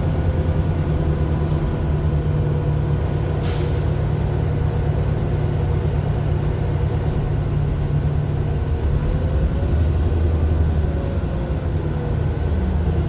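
Mercedes-Benz Citaro LE city bus running, heard from the passenger cabin: its Daimler OM 457 hLA inline-six diesel runs steadily under way. A short hiss comes about three and a half seconds in.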